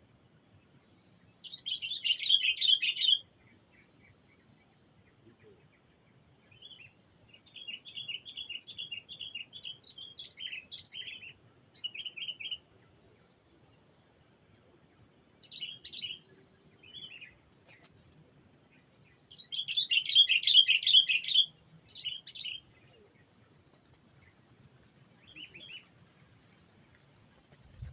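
Sooty-headed bulbuls (kutilang) calling: two loud, bubbly chattering bursts, one near the start and one past the middle, with a run of quick repeated chirps and scattered short calls in between.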